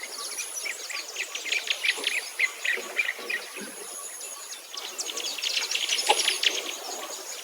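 Birds chirping in quick runs of short notes, over a thin, steady, high-pitched insect trill that comes and goes.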